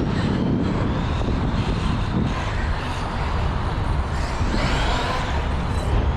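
Redcat Tornado RC car driving, heard from a camera mounted on the car: a dense, steady low rumble with a faint high electric-motor whine that rises and falls with the throttle.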